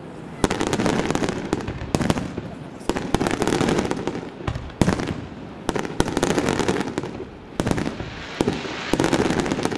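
Aerial fireworks display: shells bursting in sharp bangs, roughly one a second, with a steady rush of noise between them.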